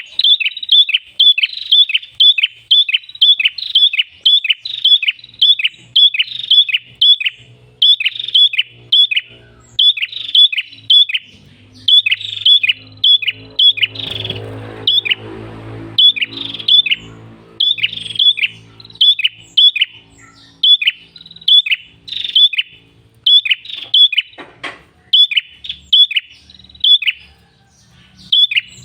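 Prenjak kepala merah bird calling persistently: fast runs of short, sharp, downward-slurred chirps, repeated over and over with brief gaps between runs.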